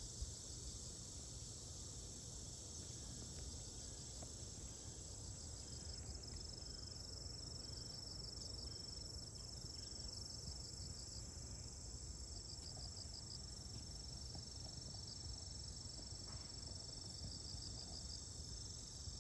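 A chorus of singing insects: a steady high-pitched trill, with bursts of rapid chirping pulses every few seconds over low outdoor background noise.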